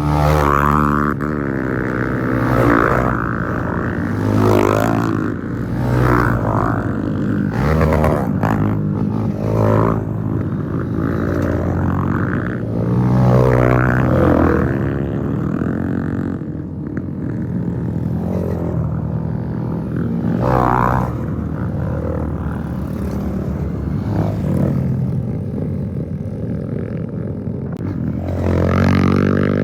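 Several dirt bikes riding past one after another, their engines revving up and down, with the engine notes rising and falling and overlapping as each bike goes by.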